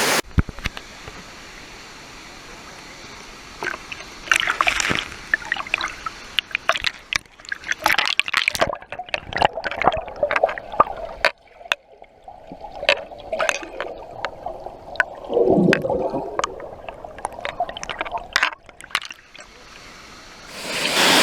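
Water splashing, sloshing and gurgling close by in many short, irregular splashes. The steady rush of the waterfall is much fainter here and swells back up near the end.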